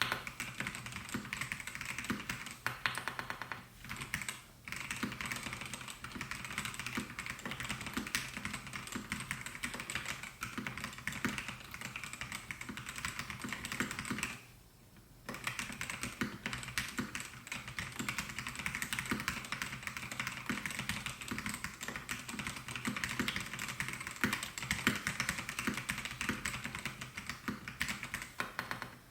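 Steady, fast typing on a Melgeek Mojo68 mechanical keyboard with white Pro switches: a dense run of key clacks, pausing briefly about four seconds in and for about a second near the middle.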